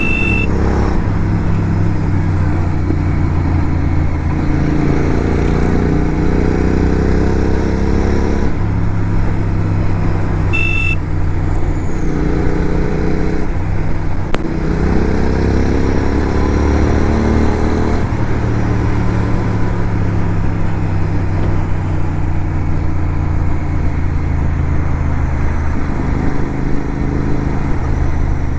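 Motorcycle engine running while being ridden, its pitch rising and dropping back several times as it accelerates through the gears. Two short high beeps sound, one at the start and one about eleven seconds in.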